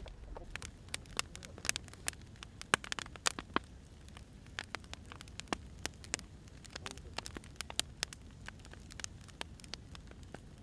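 Firewood burning and crackling, with irregular sharp pops and snaps over a low steady hiss.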